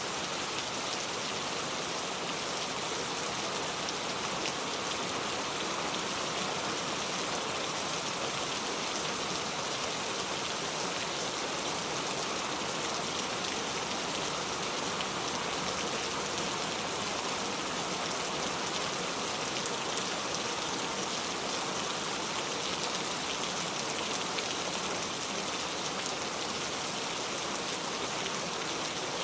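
Steady rain falling, an even hiss of drops that keeps up without change.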